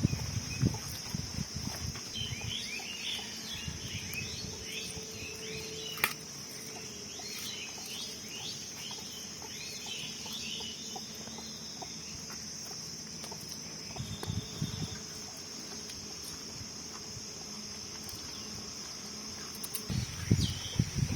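Insects droning steadily in a high, even buzz, with a flurry of short bird chirps in the first half.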